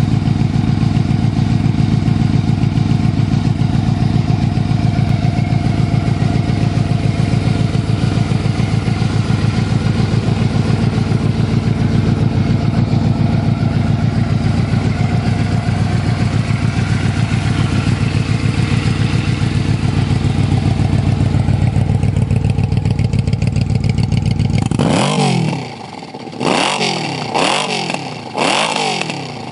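2005 Yamaha Royal Star Tour Deluxe's V4 engine idling steadily through an aftermarket Bub exhaust. Near the end the throttle is blipped four times in quick succession, each rev rising and falling back.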